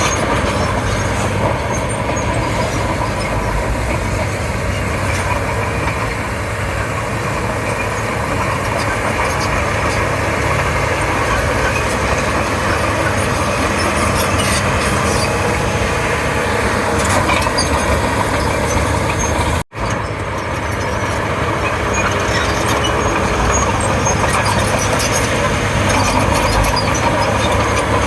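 Crawler bulldozer working: its diesel engine runs steadily under load with metallic track clatter and squeal. The sound drops out for an instant about two-thirds of the way through, then carries on the same.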